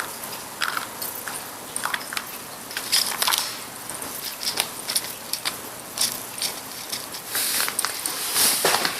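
A treat-dispensing toy clicking and rattling irregularly as a cat paws and pushes at it, trying to get a treat out.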